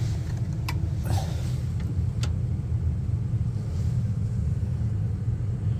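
Carrier gas furnace running on test with the thermostat jumped, a steady low rumble of its motors with a few light clicks in the first couple of seconds.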